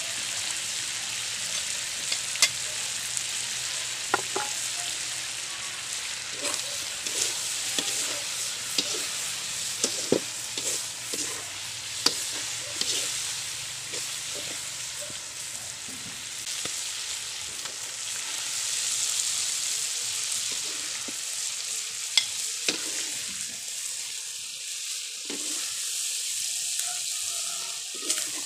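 Chicken livers sizzling in a nearly dry wok, with a steady frying hiss. The livers are stirred throughout, with sharp clicks of the utensil against the pan every second or two.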